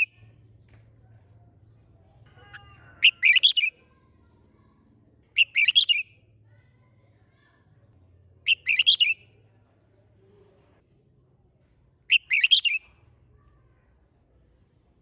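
Red-whiskered bulbul singing four short, loud song phrases, each well under a second, about three seconds apart. A faint low hum lies underneath.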